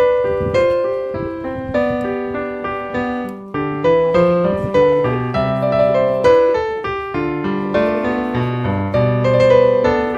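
Background piano music: a gentle melody over slow chords, each note struck and decaying.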